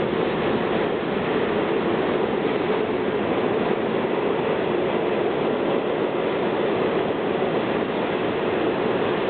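New York City subway train of R40 slant-end cars running on the A line: a steady, unbroken rumble of the moving train.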